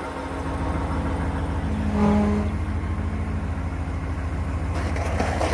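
2019 Ram pickup moving in reverse with its engine running steadily, and a short pitched tone about two seconds in: the loud noise the truck makes when backing up, mostly after it has been wet.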